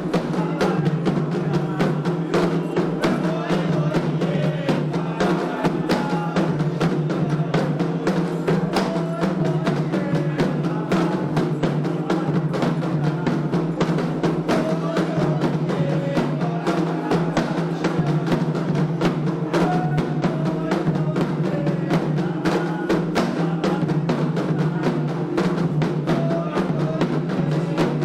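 Candomblé ritual music: atabaque hand drums played in a fast, unbroken rhythm, with voices singing over them.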